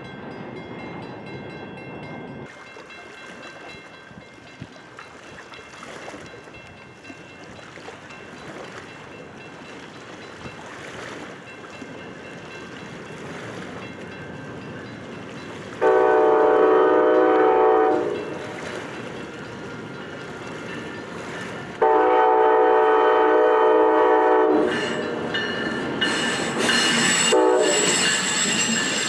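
Amtrak ACS-64 electric locomotive and its passenger train. It rumbles steadily as it approaches, sounds two long horn blasts about halfway through, a few seconds apart and each two to three seconds long, then passes close with a loud rush of wheels on the rails.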